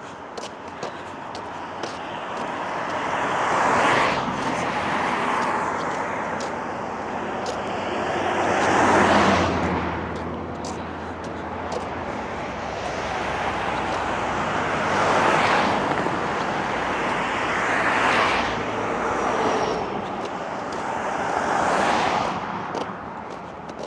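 Vehicles passing one after another on a road, about five in all, each one's tyre noise rising to a peak and fading away. A low engine hum runs underneath from about a third of the way in to just past the middle.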